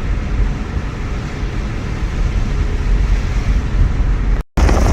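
Steady low road and engine rumble inside a moving car's cabin, which drops out to silence for a split second near the end.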